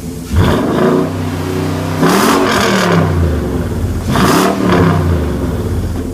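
2005 Nissan Titan's 5.6-litre V8 revved three times through a Banks 3-inch cat-back exhaust with a Walker 3-inch muffler. Each rev climbs quickly and falls back to a deep idle.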